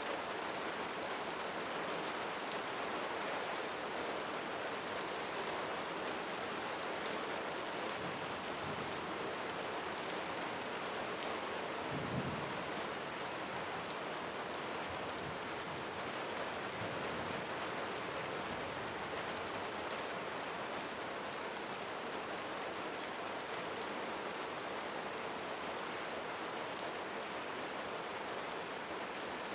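Steady rain falling on leaves, a dense patter of drops that holds even throughout, with one brief low rumble about twelve seconds in.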